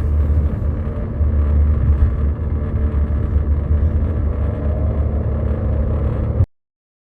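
A road vehicle's engine running steadily, a heavy low rumble with a steady hum over it, which cuts off abruptly about six and a half seconds in.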